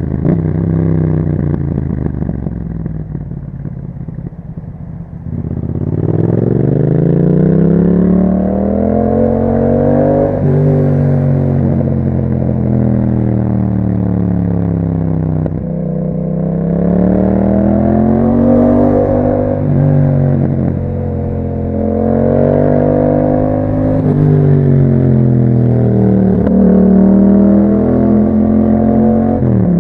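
2021 Yamaha MT-07's 689 cc 270° parallel-twin engine through an Akrapovic exhaust, under way on the road. It runs low and steady for about five seconds, then rises in pitch as it accelerates, and rises and falls several times as the throttle is opened and eased off.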